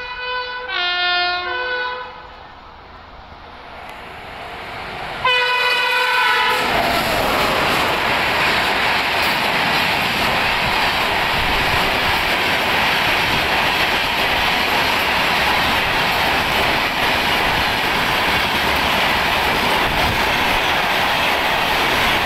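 Mumbai Rajdhani Express running through a station at about 130 km/h. The locomotive horn sounds in a run of blasts at the start, then the train's approach grows and the horn sounds again about five seconds in. After that comes the loud, steady rush and clatter of the passenger coaches going by.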